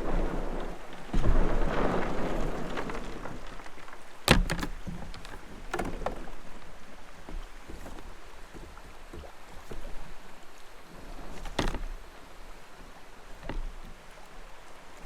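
Water splashing and sloshing around a kayak, loudest in the first few seconds, with a few sharp knocks against the hull: a double knock about four seconds in and single ones near six seconds and near the end.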